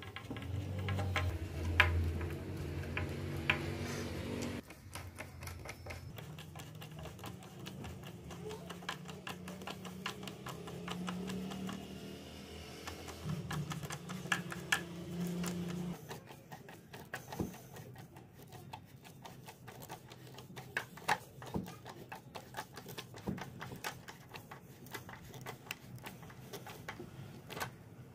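A small motorised machine running with a dense, rapid clicking and a low whir that shifts in pitch a few times, then stops partway through while lighter clicking goes on.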